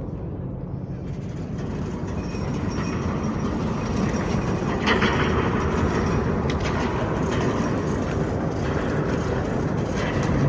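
Steady rumble of a moving vehicle, growing a little louder about four seconds in.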